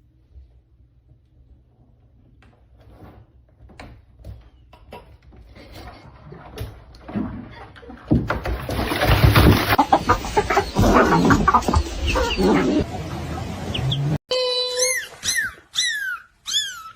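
Animal calls: faint taps build into a loud, dense flurry of short squawking cries, then, after a sudden cut, a series of short high calls that each fall quickly in pitch.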